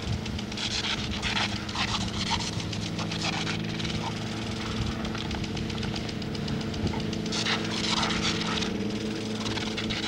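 A Labrador puppy biting at a lawn sprinkler's spray, its jaws snapping rapidly and its breath panting amid the hiss and splash of the water, over a steady low hum.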